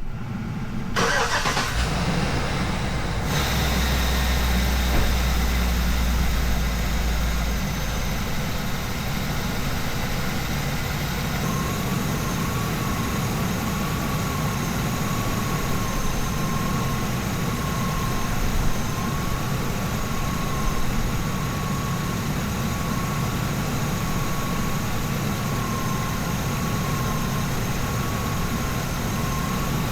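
Ambulance engine, already warm, cranked and starting about a second in, then running steadily at idle. A thin steady whine joins the engine noise about twelve seconds in.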